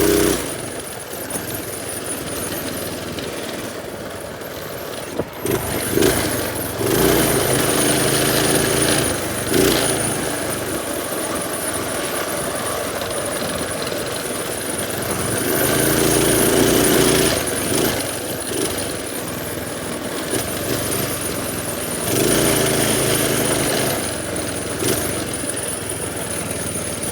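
Minibike's small engine running under way, surging louder several times as it is throttled up and eased off.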